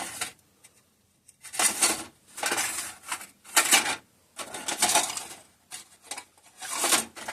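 Small metal hardware (washers and bolts) being rummaged through, clinking and rattling in several short bursts while a spare washer is hunted for.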